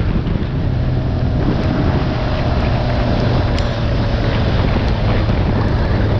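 Motorcycle at riding speed: loud, steady wind rushing over the microphone, with the engine's low, even drone underneath.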